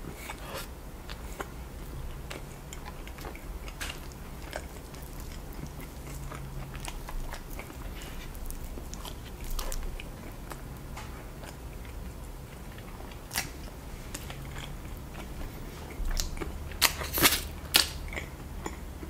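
A person chewing mouthfuls of sauce-covered rotisserie chicken, with small wet clicks, and a few sharp smacks near the end.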